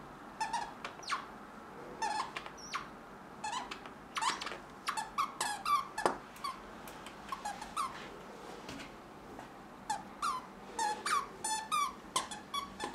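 Plush squeaky toy squeezed over and over, giving many short squeaks that bend in pitch, in irregular clusters.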